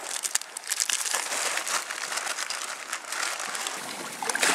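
Crinkling and crackling of a plastic snack-bar wrapper being handled and opened, with irregular sharp crackles.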